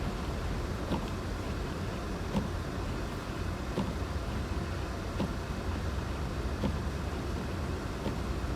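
Car driving, its steady low road and engine rumble heard from inside, with a short click repeating about every second and a half.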